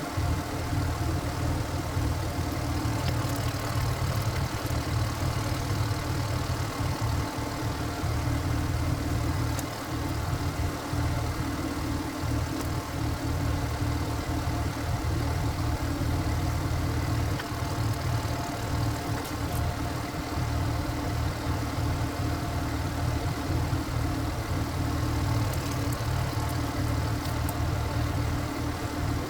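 Single-cylinder diesel engine of a walk-behind power tiller running steadily at a low, even speed.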